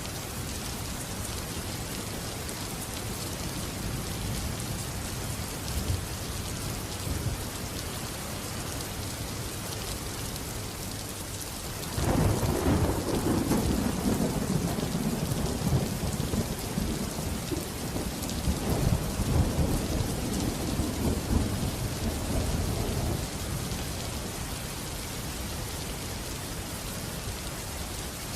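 Steady heavy rain hissing, with a long rolling thunderclap that breaks in suddenly about twelve seconds in, rumbles low and loud for around ten seconds, then dies back into the rain.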